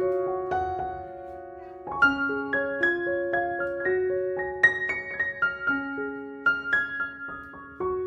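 Background music: a gentle solo piano melody of single notes, a few a second, each ringing on and fading.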